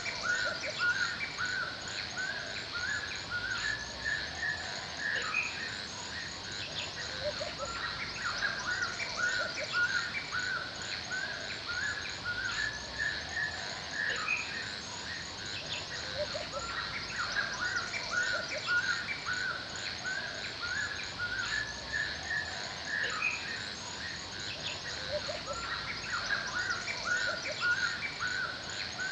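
Forest ambience: many small birds chirping and calling in short, quick notes throughout, over a steady high-pitched hum and a rapid run of faint high chirps.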